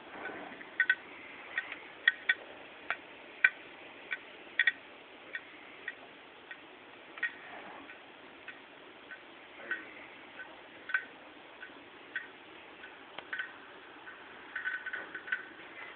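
Failing Hitachi 5400 rpm laptop hard drive in a MacBook Pro clicking over and over at uneven intervals, about one or two sharp clicks a second, with a quick run of clicks near the end. The clicking is the sign of the hard drive failing.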